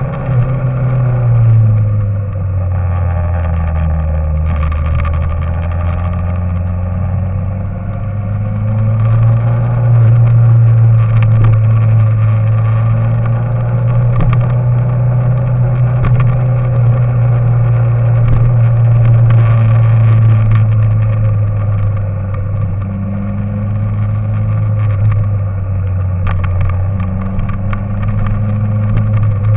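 An engine running steadily, its pitch slowly shifting up and down as the speed changes.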